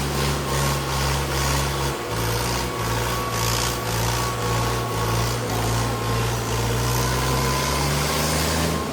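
Tractor diesel engine running hard under load in a tractor tug-of-war. Its pitch drops about two seconds in, holds low, and climbs back near the end.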